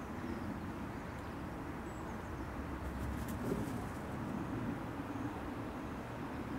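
Birds calling over a steady low outdoor background rumble, with a few light clicks about three seconds in.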